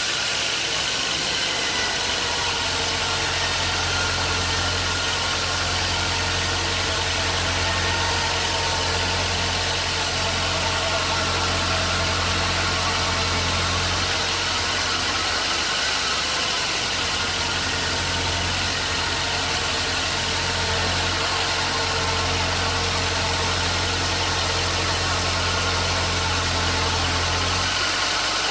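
Sawmill machinery running steadily: a continuous low hum with an even mechanical noise over it, dipping briefly about halfway through.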